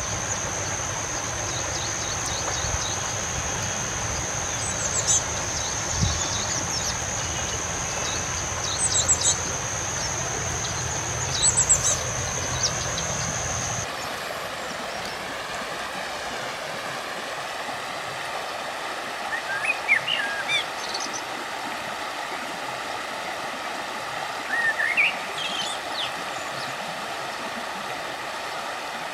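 River water flowing steadily, with small birds giving short chirps now and then. In the first half there is also a low rumble and a steady high-pitched tone, and both cut off suddenly about halfway through.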